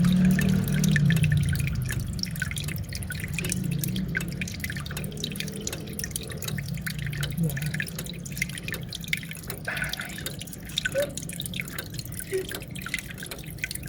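Water falling and dripping in an aquarium's waterfall: a steady patter of small drops and splashes over a low rumble. The rumble eases after the first couple of seconds.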